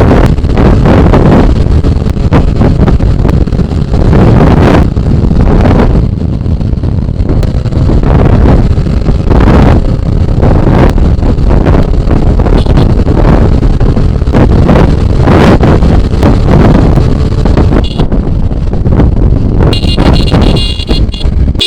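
Loud wind buffeting the microphone on a motorcycle being ridden, a TVS Apache RTR 180, with steady engine and road rumble underneath.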